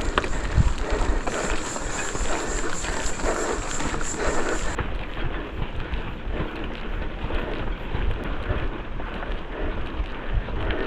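Wind buffeting the microphone over the rolling rumble of a mountain bike being ridden on a trail.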